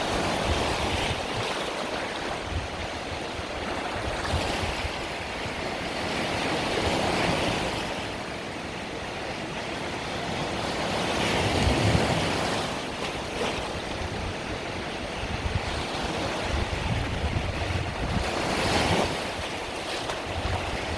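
Mediterranean sea waves breaking and washing on the shore, swelling and ebbing every few seconds, with wind buffeting the microphone.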